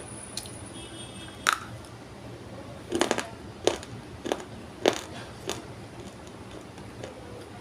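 Dried multani mitti (fuller's earth) clay being crunched: sharp dry cracks and snaps, one about a second and a half in, then a run of about five in the middle seconds.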